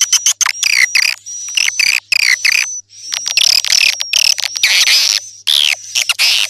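Recorded swiftlet calls played as a lure sound: rapid, high-pitched twittering chirps with a thin steady whistle running through them, starting and stopping abruptly.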